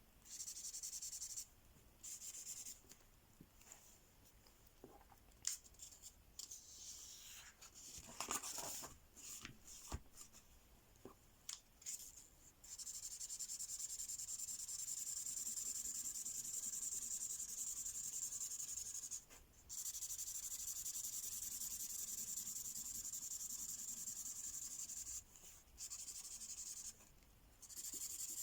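Ink pen colouring on paper, its tip scratching and rubbing. Short strokes and a few light taps come first, then long, nearly continuous back-and-forth scribbling from about halfway through, broken by a few short pauses.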